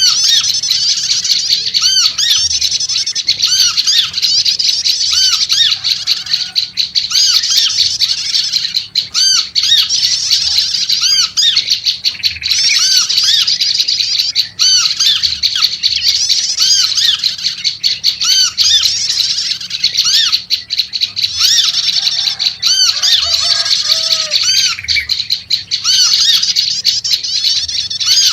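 Prenjak lumut (a prinia) calling agitatedly and without pause: rapid strings of repeated high, arched chirps. A few lower, fuller notes from a yellow-vented bulbul (trucuk) come in twice.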